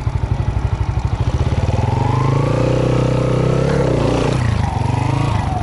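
Trail motorcycle engine chugging at low revs, then revving up about a second and a half in and pulling steadily, its pitch wavering and falling as the throttle changes; the engine note dips briefly near the end.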